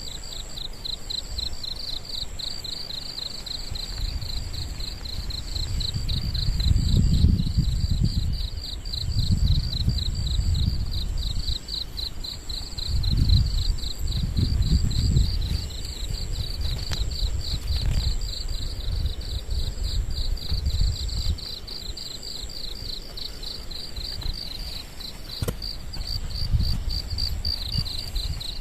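Insects chirping in a fast, even, high-pitched pulse, with a thinner, higher steady buzz above it that comes and goes. Irregular low rumbling gusts swell and fade under it, loudest about a quarter and about half of the way in.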